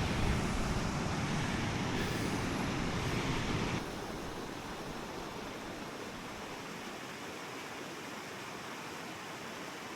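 Steady rushing of a waterfall, dropping abruptly to a quieter, thinner rush about four seconds in.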